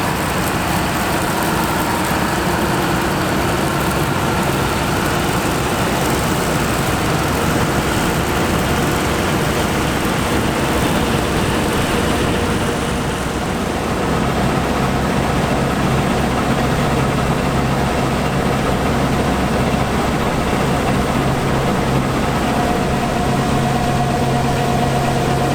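Heavy diesel harvest machinery running steadily. About halfway through the engine note changes to a steadier hum with a clear low drone and a thin higher whine.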